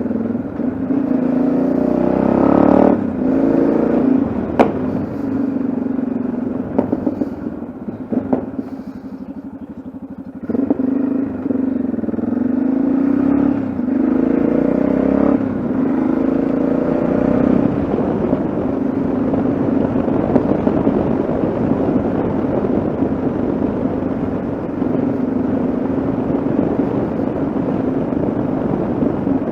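Yamaha XT660Z Ténéré's single-cylinder four-stroke engine running under way, its note rising and falling with throttle and dropping back for a couple of seconds about eight seconds in before picking up again.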